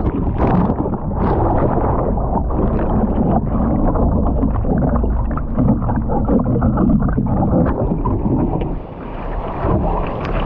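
Wind buffeting the microphone over the rush and splash of choppy surf, with a brief dip in level about nine seconds in.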